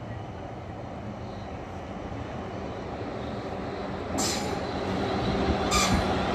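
A train approaching along the track, its running noise growing steadily louder, with two short high-pitched bursts about four and six seconds in.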